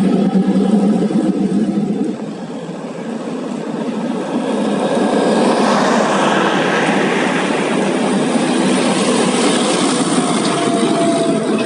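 Heavy diesel haul truck running, with its engine's steady hum for the first couple of seconds. After a brief dip, a broad rushing noise of engine and tyres swells from about four seconds in and stays loud, as a truck passes close by.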